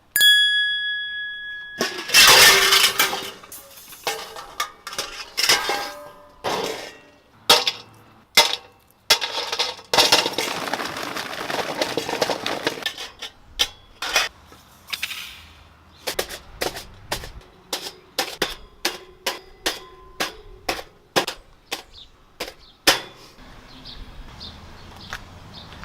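A run of clanks, clinks and knocks of metal and other hard objects being handled, with a rushing, clattering stretch about ten seconds in. It opens with a brief ringing tone.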